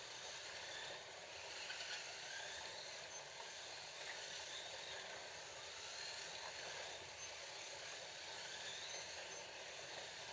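Scalextric slot cars running laps on a plastic track. Their small electric motors whine, rising and falling in pitch as they speed up and slow for the corners, over a steady hiss of the cars running on the track.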